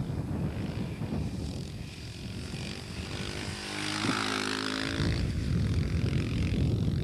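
Husqvarna 610 single-cylinder dirt bike engine running as the bike rides on the ice, its pitched engine note and tyre hiss loudest about four seconds in, over a low rumble.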